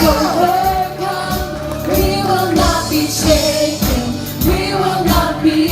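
Worship band and singers performing a gospel worship song, with several voices singing together over a steady drum beat.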